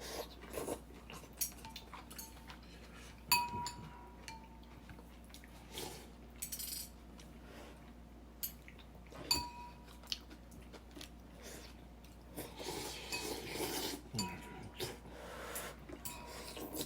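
Cutlery clinking and scraping against plates and bowls at a meal, with a few sharp ringing clinks. Softer rustling comes about two-thirds of the way through.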